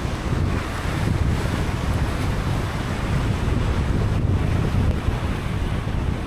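Steady rush of rain and car tyres on wet pavement, over the low rumble of the moving car.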